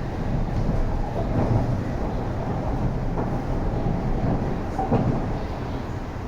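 MTR East Rail Line R-train (Hyundai Rotem electric multiple unit) running, heard from inside the carriage: a steady low rumble of wheels on rail with a few brief louder knocks.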